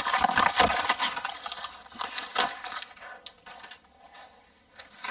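Crackling, rustling handling of a self-adhesive wall-repair mesh patch and its packaging, with irregular clicks, busiest in the first two and a half seconds, then one more click and quieter toward the end.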